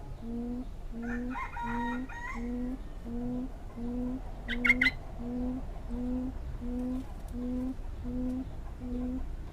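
A puyuh quail calling: a steady series of short, low hooting notes, about two a second, each rising slightly, made from the breath with the beak closed, like a throat being cleared. Short higher-pitched chirps sound over it near the start, with a brief loud burst of them about halfway through.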